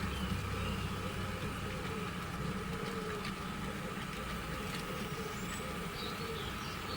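Model railroad diesel locomotive running steadily, with a low engine rumble and a thin, steady whine.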